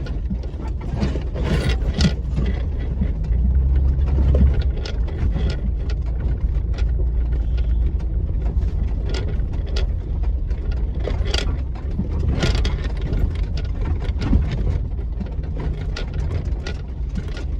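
Steady low road rumble inside a moving vehicle, with frequent light rattling clicks from loose parts.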